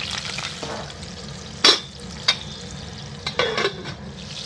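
Tomato halves sizzling and crackling in hot oil in a kadhai as they are turned. A sharp knock, loudest of all, comes a bit under two seconds in, a smaller one about half a second later, and a short clatter past three seconds, from the utensil against the pan. The sizzle is quieter in the middle and louder again at the end.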